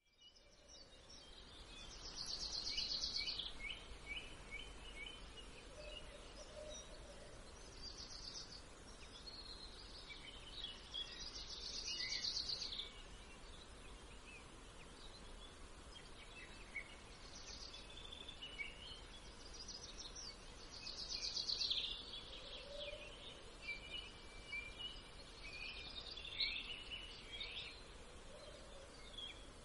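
Faint songbirds chirping and trilling in short high phrases every few seconds over a steady background hiss.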